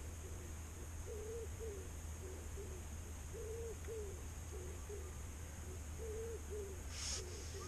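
A bird calling with low, short notes repeated in little phrases of two or three. A brief sharp rustle or click comes near the end.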